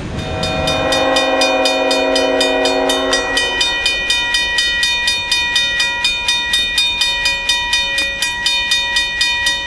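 Freight locomotive horn sounding a chord for about three and a half seconds, over a grade-crossing bell ringing rapidly at about four to five strokes a second; the bell stops abruptly at the end.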